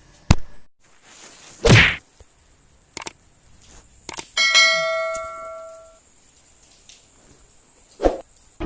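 A few sharp knocks and clicks and a couple of thuds, with one metallic ding about four and a half seconds in that rings and fades over about a second and a half.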